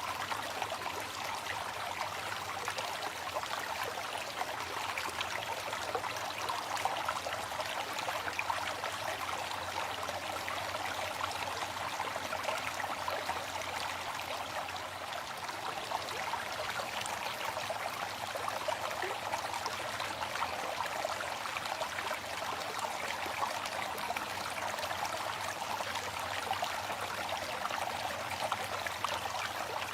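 Waterfall: water falling and splashing in a steady, even rush with no pauses.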